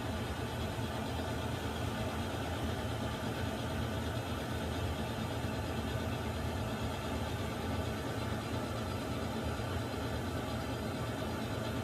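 Water heater running: a steady, unchanging low rumble with a softer hiss above it.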